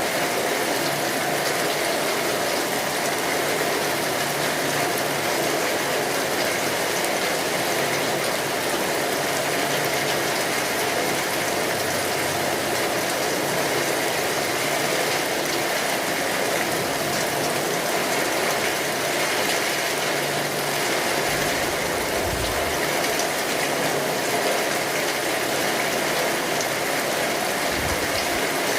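Steady rain drumming on a tin roof, mixed with the fine crackle of a wood fire. Two brief low thumps come through, one about three quarters of the way in and one near the end.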